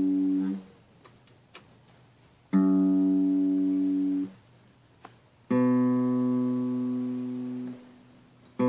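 Single guitar notes plucked one at a time and left to ring while a string is tuned to a reference pitch. The same note sounds twice, then a lower note, each damped after a second or two.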